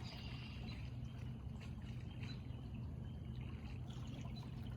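Water flowing steadily, like a stream, with a few faint short bird chirps.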